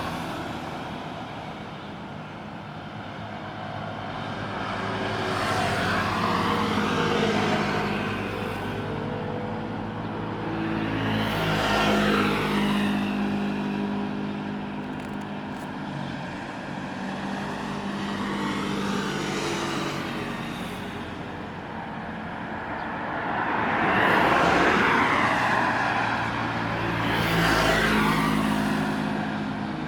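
Road traffic: motor vehicles passing one after another, each swelling in and fading away, about five passes, over a steady engine hum.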